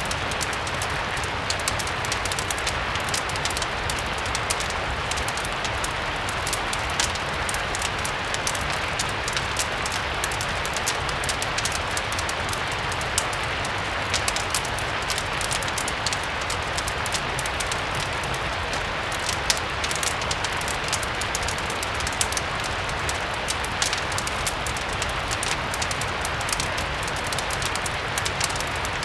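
Steady rain with a fire crackling, a dense scatter of small sharp pops over an even hiss.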